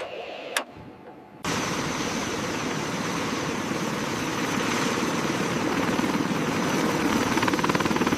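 Helicopter turbine engines and rotor running steadily, with a thin high whine above the dense engine noise. The sound cuts in suddenly about a second and a half in, after a few faint clicks.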